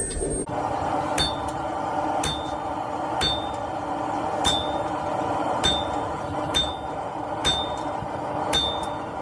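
Sledgehammer blows on a round fuller held against hot 1-inch round bar stock on the anvil, eight strikes at a steady pace of about one a second, each with a high metallic ring. A steady roar runs underneath.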